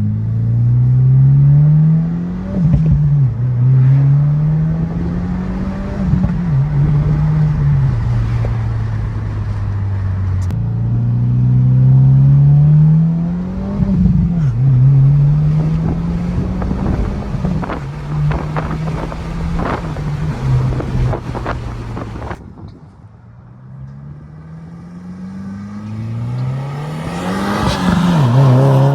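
Subaru WRX's turbocharged flat-four through a titanium single-exit catback exhaust, accelerating through the gears: the note climbs and drops back at each upshift, several times over. Sharp pops and crackles come in the middle stretch. After a sudden cut to a quieter moment, another pull builds loudly near the end.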